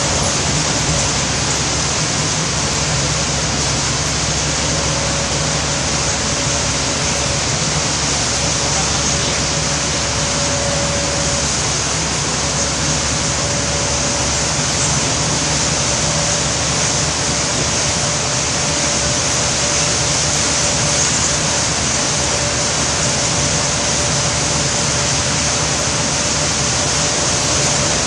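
Steady, dense rushing noise of heavy rain mixed with a vehicle's running noise, with a faint steady whine that drops out now and then.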